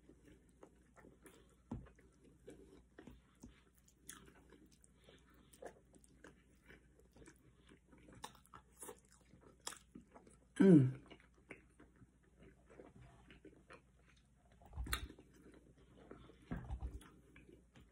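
Close-up chewing and biting of a forkful of cooked greens and rice, with small wet mouth clicks and smacks throughout. There is a short hum of the voice, falling in pitch, about eleven seconds in, and a few soft low knocks near the end.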